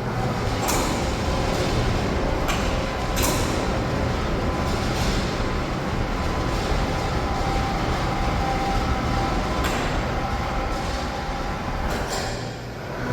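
Overhead hoist crane travelling along its runway rail: the travel geared motor runs with a faint whine over the rumble of steel wheels on the rail, with occasional clacks. The travel-wheel bearing and geared motor have just been replaced.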